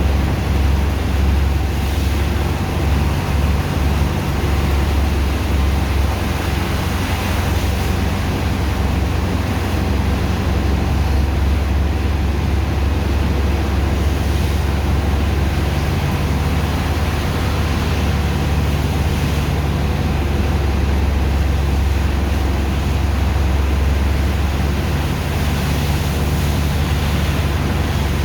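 Heavy engine of a sand dredger's pumping machine running steadily under load, a loud low drone with a constant rushing hiss over it.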